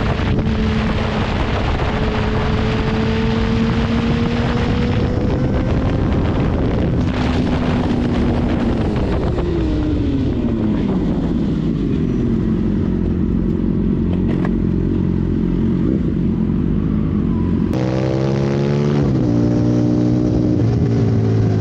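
Motorcycle engine running at speed with wind rush, its pitch climbing slowly at first, dropping away as it slows about ten seconds in, then rising and falling again near the end as the revs change.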